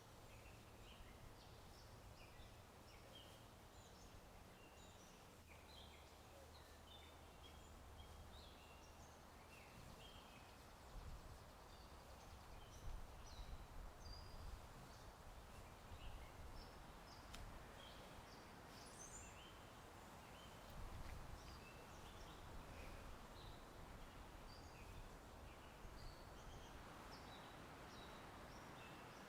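Faint background of many small songbirds chirping and twittering in short, scattered calls, over a low steady wind rumble.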